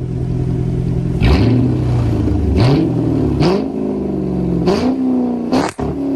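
A 2006 Dodge Charger R/T's 5.7 L HEMI V8, running with its mufflers removed and the catalytic converters still on, idling and then blipped hard five times, each rev rising and falling back to idle.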